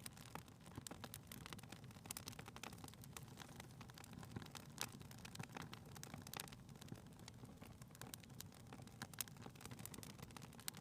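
Faint fireplace fire crackling, with irregular sharp snaps over a low steady rumble.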